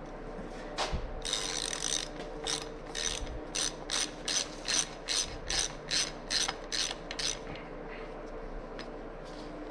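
Hand ratchet wrench clicking, most likely on the rear sprocket bolts: a short fast run of clicks, then about a dozen sharp clicking strokes at roughly three a second.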